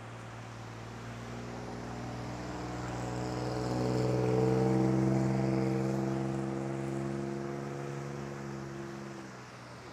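A motor vehicle's engine drone, steady in pitch, growing louder to a peak about halfway through and then fading away as the vehicle passes by.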